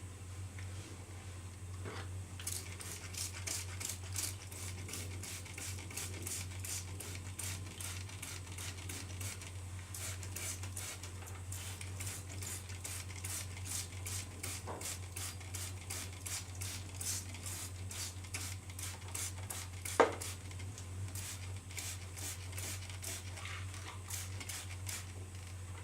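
Scotch-Brite pad on a coat-hanger tool scrubbing up and down inside the bore of an HEI distributor housing: steady rhythmic scratchy strokes, about three a second, over a low hum. A single sharp clink about twenty seconds in is the loudest sound.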